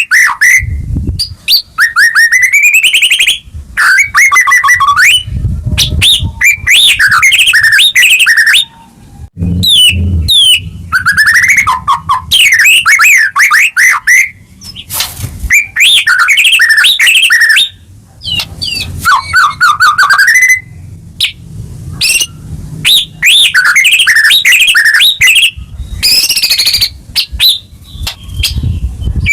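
White-rumped shama (murai batu) singing loudly and almost without pause: phrase after phrase of rapid, varied whistles, trills and glides, with short breaks between phrases.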